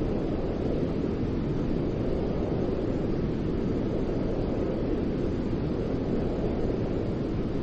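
Continuous white noise played to soothe a baby to sleep: a steady, even rush that is deep and rumbling rather than hissy, with no changes.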